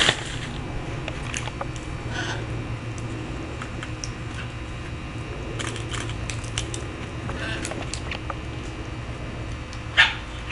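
Feral macaws at a feeder cracking walnuts and peanuts: scattered sharp clicks and crunches of shell, with a loud harsh call near the end, over a steady low hum.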